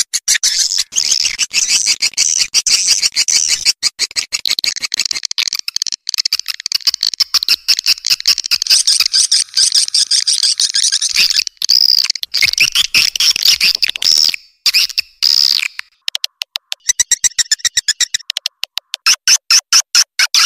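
Swiftlet call lure recording: dense, rapid twittering chirps and clicks of swiftlets, with a couple of short breaks and a faster, stuttering chatter near the end. This is the kind of call track played in swiftlet houses to draw the birds in.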